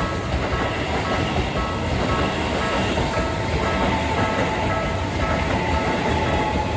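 Railroad crossing alarm ringing in short repeated tones, about two a second, over the steady rumble of a Keisei line train running through the level crossing.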